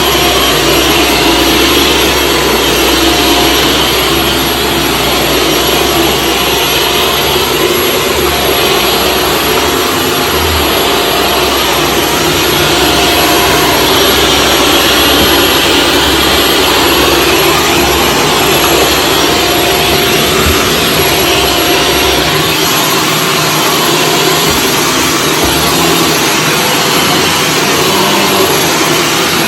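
Shark Stratos vacuum cleaner running steadily, a loud rushing noise with a thin steady whine over it. The low rumble underneath drops away about 22 seconds in.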